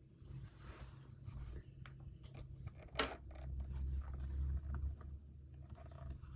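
Small handling sounds at a study desk: scratchy rustling and scraping with a run of small clicks, and one sharp click about three seconds in, over a steady low hum.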